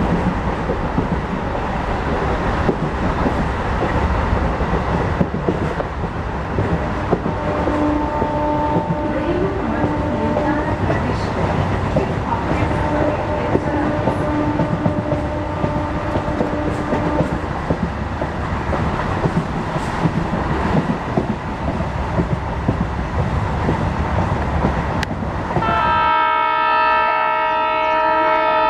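Steady rumbling running noise, with a horn sounding two long blasts in the middle and a louder horn blast starting near the end.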